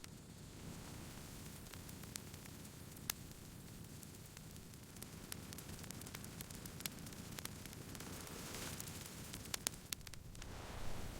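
Campfire burning: a steady soft hiss with scattered sharp crackles and pops of burning wood, one louder pop about three seconds in and a quick cluster of pops near the end.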